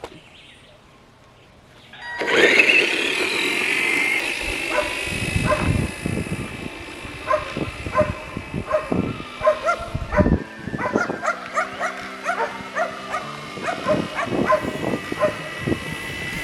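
Arrma Typhon Mega RC buggy running on its Injora 550 brushed motor: it takes off about two seconds in with a steady high motor whine and tyre hiss, broken by many sharp knocks as it runs flat out, a top-speed run at about 17 mph on the stock NiMH battery.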